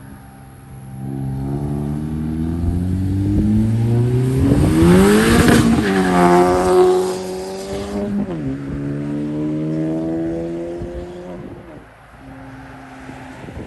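A car accelerating past, its engine note rising as it revs. A loud rush comes as it goes by, then the pitch drops sharply, drops again a couple of seconds later, and fades as it drives away.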